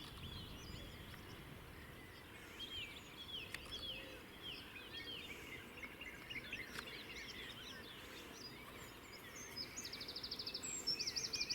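Several small birds singing and calling, with many short chirps throughout and a fast trill near the end, over a low background rumble.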